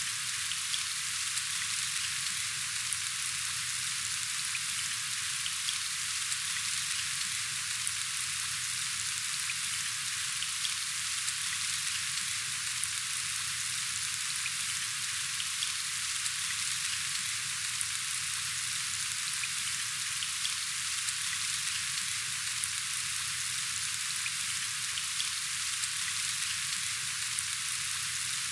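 Steady rain falling: an even hiss of many drops with scattered light taps, unchanging throughout.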